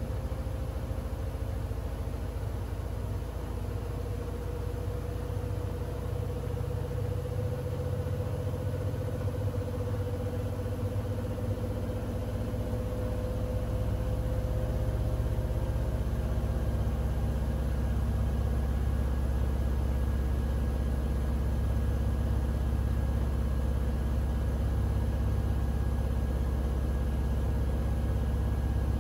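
Siemens iQ700 front-loading washing machine running with its drum spinning: a motor whine slowly rises in pitch over the first half. About halfway through, a deep rumble swells, the sound gets louder, and a second, higher whine sets in as the drum speeds up.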